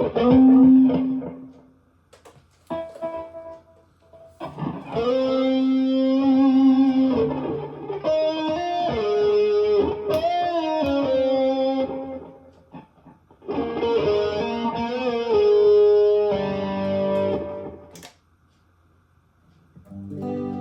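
Electric guitar through a multi-effects processor, played through a full-range powered speaker: phrases of sustained, bent lead notes separated by short pauses, with a silence near the end before the next notes begin.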